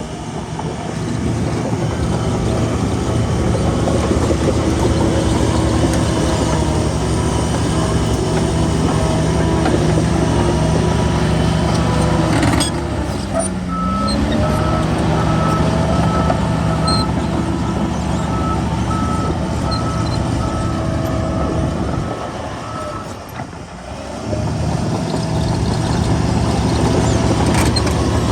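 Heavy diesel engine of a bulldozer running under load, easing off twice with a brief dip and pick-up in pitch. A reversing alarm beeps about once a second through the middle stretch.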